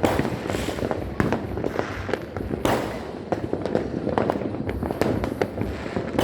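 Fireworks and firecrackers going off all around without a break: many overlapping bangs and pops at uneven spacing, with longer hissing crackle bursts about half a second in and near the middle.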